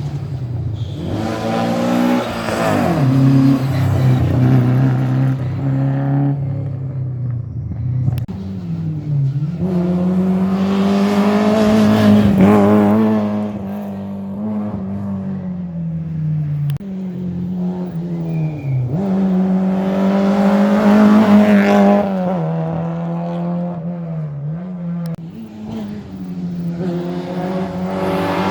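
Rally car engines revved hard, their pitch climbing and then dropping sharply at gear changes and lift-offs. Several loud swells come as cars go by.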